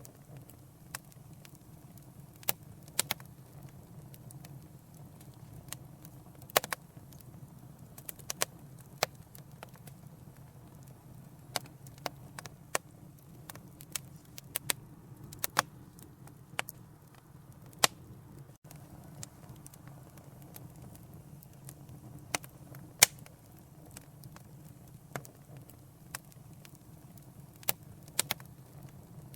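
Wood fire in a fireplace crackling, with irregular sharp pops and snaps over a low, steady rumble of the flames. A few pops are much louder than the rest.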